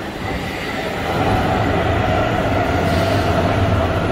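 Hamburg S-Bahn electric train pulling into an underground station, its rumble and motor hum growing louder about a second in as the carriages pass close by, with a steady whine over the top.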